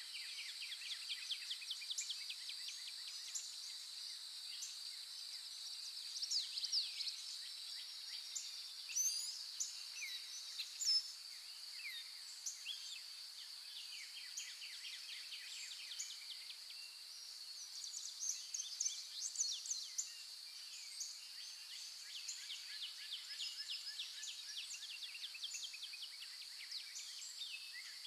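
Several birds chirping, trilling and whistling over a steady high-pitched insect drone, with the busiest bursts of song around a quarter and two-thirds of the way through.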